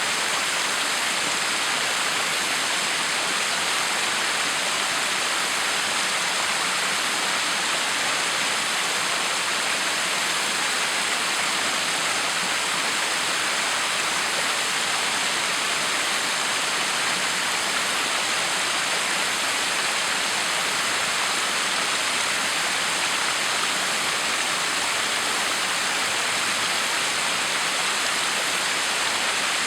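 Backyard waterfall: a steady, even rush of falling water splashing.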